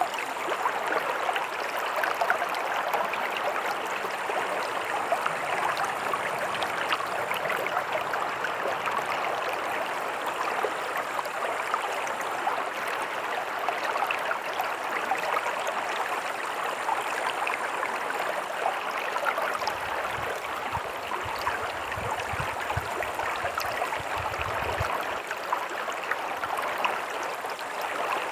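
Stream water running and gurgling over rocks in a steady, even rush. A few seconds of faint low rumbling come in about three-quarters of the way through.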